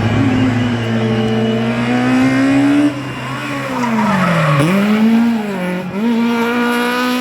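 Rally car engine under hard throttle, its revs climbing steadily for about three seconds, then cutting back sharply, dipping low and rising again twice. Tyres squeal in the middle, as the car slides through a corner.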